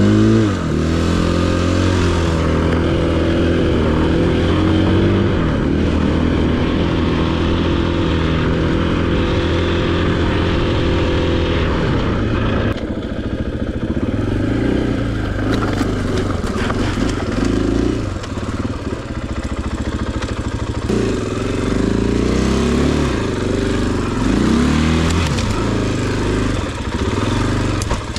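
A 500cc single-cylinder four-stroke enduro dirt bike engine being ridden over rough, rocky ground, its revs rising and falling again and again as the throttle is worked. A run of brief knocks and clatters comes about halfway through.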